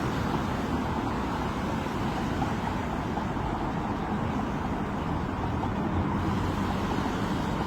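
Steady road traffic noise: an even low rumble with hiss.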